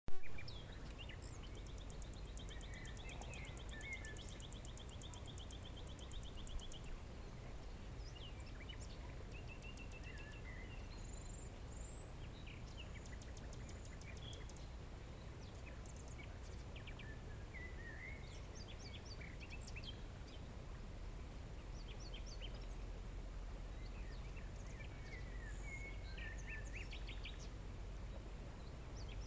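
Several songbirds singing and calling: fast buzzy trills and short high chirps come and go throughout, over a steady low rumble.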